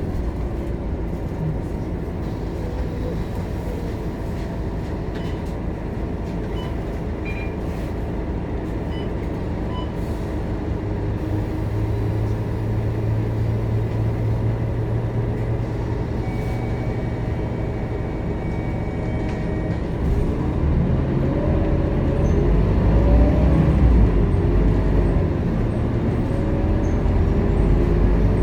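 Scania K230UB city bus's five-cylinder diesel engine running under way, a steady hum that climbs in pitch over the last several seconds as the bus accelerates.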